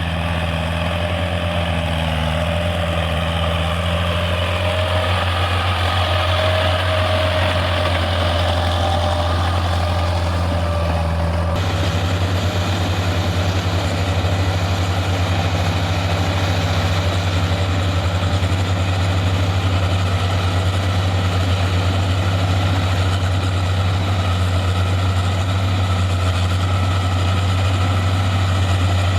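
Heavy diesel engine of a tractor-type field vehicle running steadily at a low, even pitch, with a faint whine above it; the sound changes abruptly about twelve seconds in.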